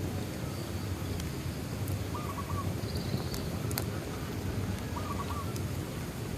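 A bonfire crackling, with a few sharp pops over a steady low rumble. A short two-part animal call sounds twice, about two seconds in and again about five seconds in.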